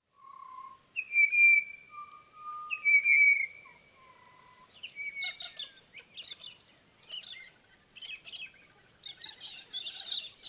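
Birdsong. A few clear, drawn-out whistled notes come in the first half. From about five seconds in there is a busier chatter of chirps.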